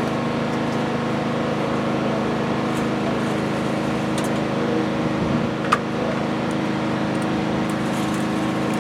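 Diesel engine of an Isuzu FVZ34 dump truck idling with a steady hum, with one short click a little past halfway.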